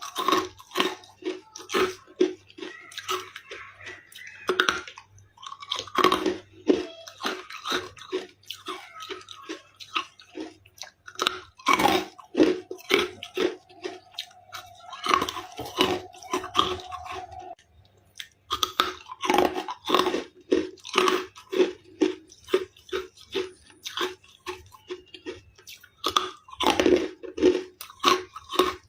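Someone chewing and crunching carbonated ice close to the microphone: quick, repeated crunches at about two to three a second, with a brief pause about two thirds of the way in. A faint steady tone sounds under the chewing for a few seconds in the middle.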